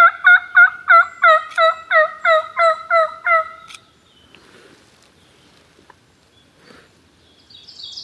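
Turkey call sounding a run of about a dozen hen-turkey yelps, roughly three a second, ending about four seconds in. Near the end a small bird starts chirping.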